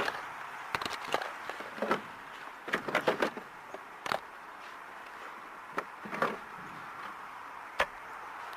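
Irregular knocks and clacks of work being done by hand, a quick cluster of several about three seconds in and single ones scattered after, over a steady hiss.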